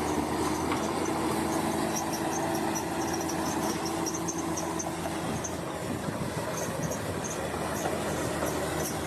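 Bulldozer's diesel engine running steadily, with light metallic clicking from the moving machinery.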